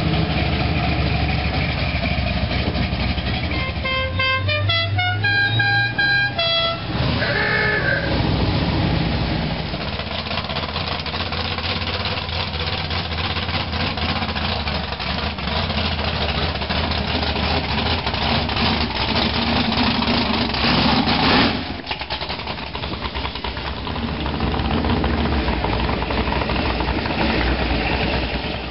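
Classic car and hot rod engines running as the cars drive slowly past one after another. About four seconds in, a musical car horn plays a short tune of stepped notes. A little past twenty seconds there is one brief, louder peak.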